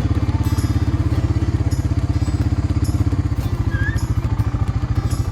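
Four-wheeler (ATV) engine running at a steady, even pace, its firing pulses close and loud.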